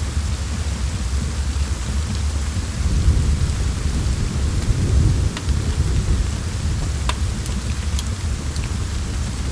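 Steady rain with a wood fire crackling, a few sharp pops in the second half, and a low rumble that swells and fades in the middle.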